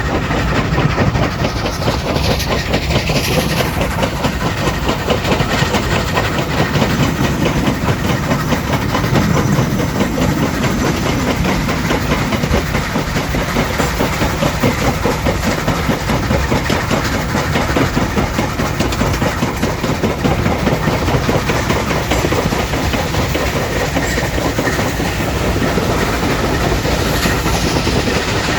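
A vintage train running along the track: a steady rumble with the clatter of wheels on the rails.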